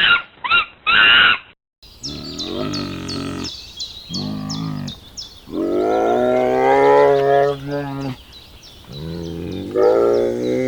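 Cattle mooing: several long, low moos in a row, each lasting one to two and a half seconds, over a fast, regular high ticking. Shorter loud animal calls come first, before a brief break under two seconds in.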